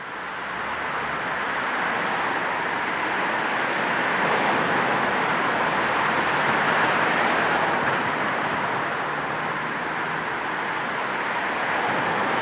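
Steady city road traffic: a continuous wash of passing cars' tyre and engine noise, fading in over the first second or two.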